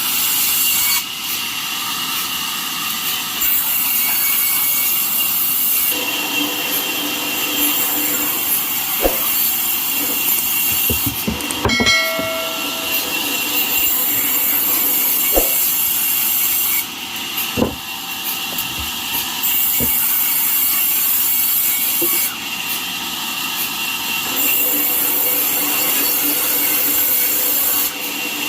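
Band sawmill blade cutting lengthwise through a jackfruit log: a steady high hiss that swells and eases as the cut goes on, with a few sharp knocks in the middle.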